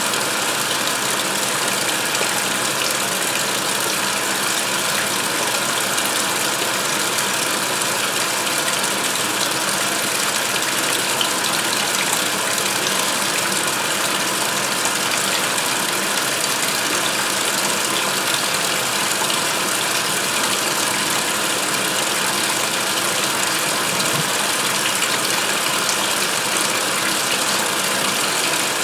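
2016 Speed Queen top-load washer filling for the rinse: water rushing steadily into the tub, with a faint hum from the machine.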